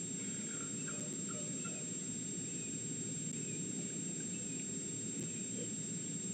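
Steady low background noise with a constant thin high whine, and faint short chirps scattered throughout.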